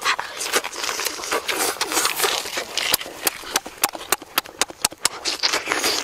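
Close-up wet chewing and lip-smacking: a dense run of sharp mouth clicks, with breathy hissing through pursed lips between them.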